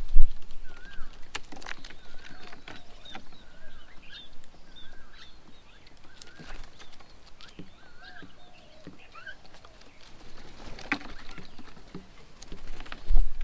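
Birds calling outdoors: short, wavering whistled chirps repeated over and over, with higher notes mixed in and scattered sharp clicks and knocks. A loud low thump comes at the very start and another just before the end.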